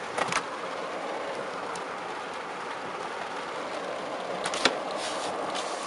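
Heavy rain pelting the car's roof and windshield in a steady wash, with a couple of sharp clicks, one just after the start and one near the end.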